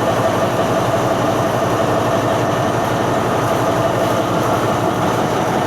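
Diesel train with Alsthom locomotive 4121 running, a loud, steady rumble with a constant engine hum.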